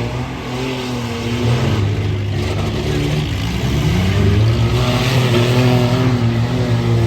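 Truck engines racing around a figure-8 track, revving up and down with rising pitch glides in the middle, getting louder from about halfway through.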